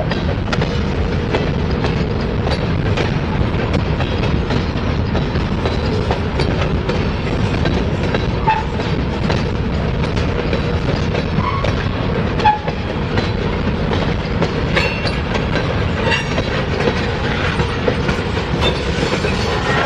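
Freight train of covered hoppers and tank cars rolling past at close range: a steady rumble of wheels on rail, with scattered short knocks and a few brief squeaks from the wheels.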